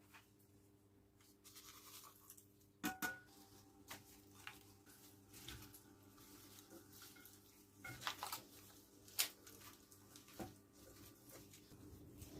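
Quiet kitchen handling noises: scattered clicks, knocks and scraping, with the loudest knocks about three seconds in and about nine seconds in. A faint steady hum runs underneath.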